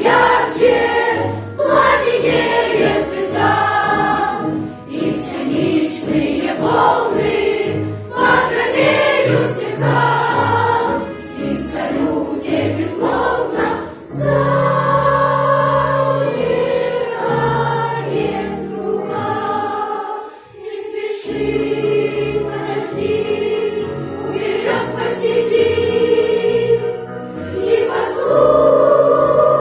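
School cadet choir singing a patriotic song in Russian with musical accompaniment, the sound dropping away briefly about twenty seconds in.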